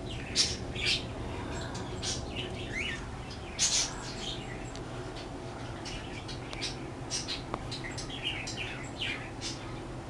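Birds chirping: a dozen or so short, high chirps scattered irregularly, over a steady low background hum.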